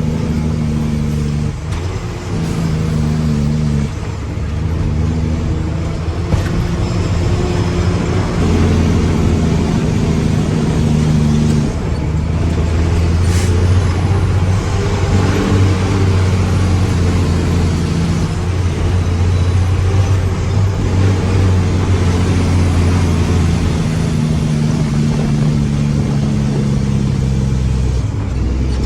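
A Mack truck's diesel engine running loud and steady, its revs stepping up and down as it offloads granite, with a steady rushing hiss above it.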